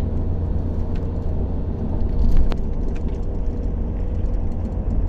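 Steady low rumble of a moving road vehicle, with one sharp click about two and a half seconds in.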